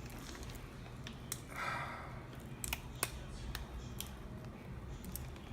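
Frozen vegetable pieces clicking as they drop into a casserole dish: a handful of scattered sharp ticks, with a brief rustle about one and a half seconds in.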